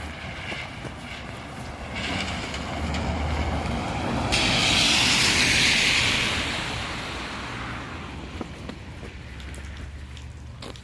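A vehicle passing close by: its noise swells, is loudest about halfway through and fades away over a few seconds.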